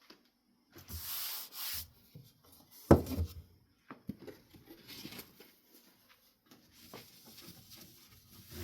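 Rubbing and handling noises on a desk: two short rubbing strokes about a second in, a sharp knock about three seconds in, then lighter scraping and small knocks.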